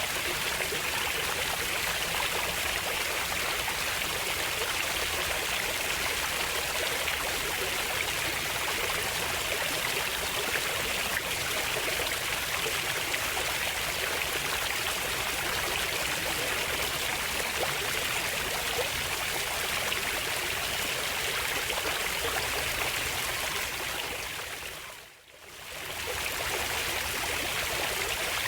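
Running water flowing steadily with an even rushing hiss. About 25 seconds in it fades out almost to nothing and then fades back in.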